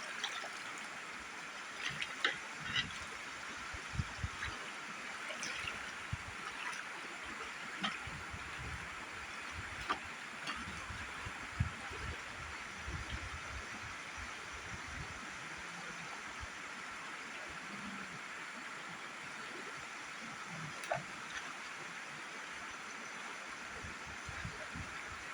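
Steady rush of river water, with scattered knocks and clicks of handling in the first half.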